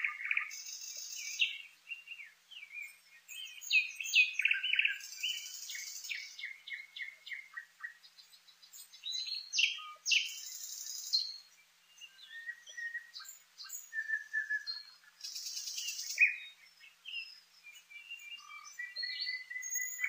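A songbird singing a varied song of whistles, trills, clicks and buzzy notes, in short phrases with brief pauses between them.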